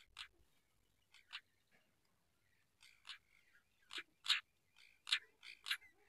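Short, harsh bird calls in an irregular series: a few sparse notes at first, then louder calls coming more quickly in the second half.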